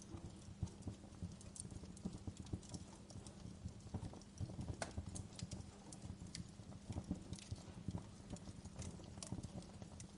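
Fireplace wood fire crackling: irregular sharp pops and snaps over a steady low rumble of the burning fire.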